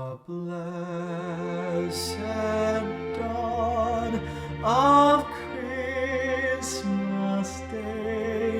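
Choir singing a slow, sustained choral piece with vibrato on the held notes and soft sibilant consonants.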